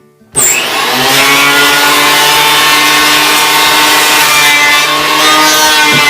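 Planer switched on about a third of a second in: its motor comes up to speed within a second, then runs loud and steady with a constant whine.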